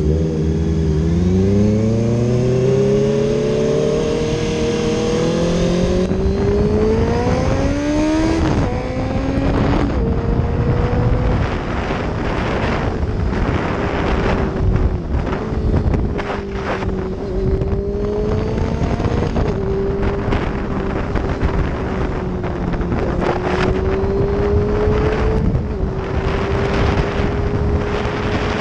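Motorcycle engine pulling hard, its pitch climbing for about eight seconds, then dropping at a shift up and holding a fairly steady cruising speed, over rushing wind noise.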